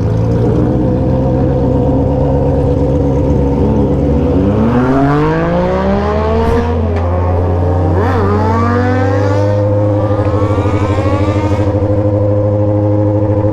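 Motorcycle engines with aftermarket exhausts running on the move: a steady engine note throughout, with an engine revving up in rising sweeps about four seconds in and again about eight seconds in.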